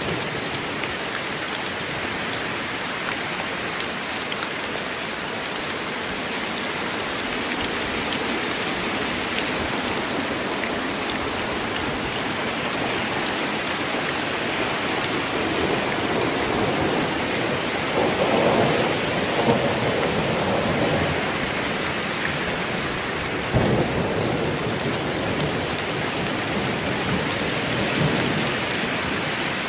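Steady heavy rain falling on a forest, a dense even hiss. Thunder rolls in past the middle, swelling for several seconds, and a sharp crack follows a little later.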